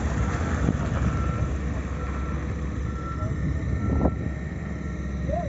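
Heavy diesel earthmoving machinery running steadily, with a reversing alarm beeping about once a second. A single sharp knock comes about four seconds in.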